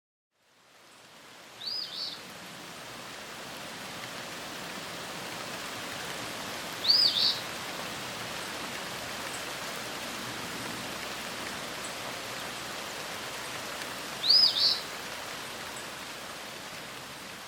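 A bird calling three times, each call a quick pair of arching notes, several seconds apart, over a steady rain-like hiss of natural ambience that fades in at the start.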